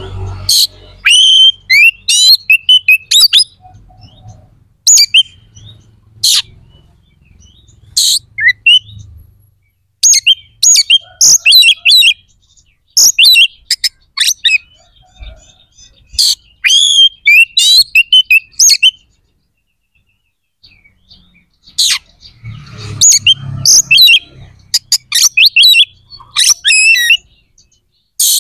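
Oriental magpie-robin (kacer) singing loudly in rapid bursts of sharp, sweeping whistles and chirps, its song full of mimicked phrases. The phrases come with short pauses between them, and a longer pause about two-thirds of the way through.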